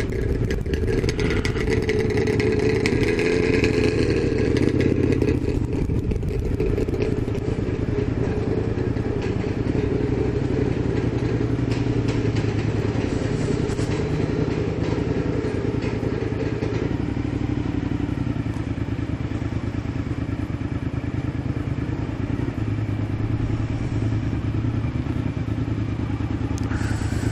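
Suzuki SV1000's V-twin engine running at low speed and idling, a steady low rumble, a little busier in the first few seconds.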